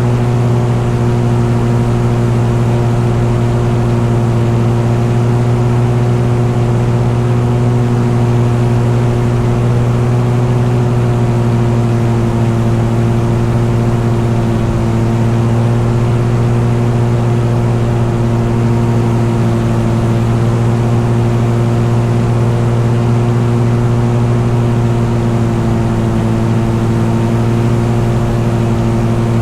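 An engine running steadily at an unchanging speed, a continuous loud drone.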